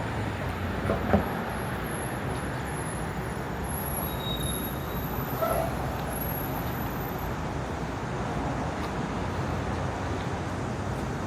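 Steady city street traffic noise, with two short knocks about a second in.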